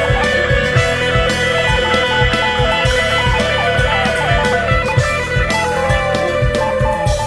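Live instrumental rock jam: guitar playing sustained and sliding notes over a steady beat.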